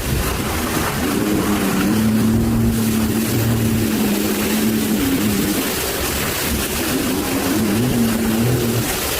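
Motorboat engine running with a steady hum that wavers in pitch later on, over constant wind and water noise.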